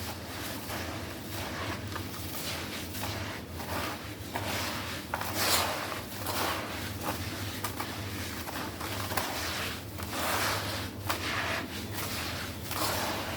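Crumbly black stone-like chunks being crushed and crumbling: a run of irregular gritty crunches, loudest about five seconds in and again around ten seconds, over a steady low hum.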